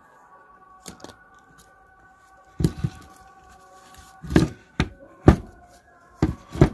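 Irregular clicks and knocks of parts being handled while the carbon brushes are fitted into an angle grinder, a few light taps about a second in, then a run of sharper knocks in the second half.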